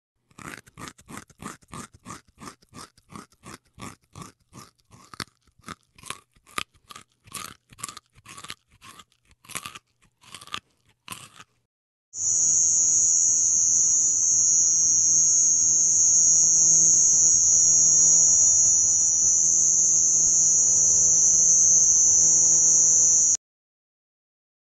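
A tree kangaroo chewing crunchy food, about three crisp crunches a second. About halfway through, the chewing gives way to a loud, steady high-pitched whine that cuts off suddenly after some eleven seconds.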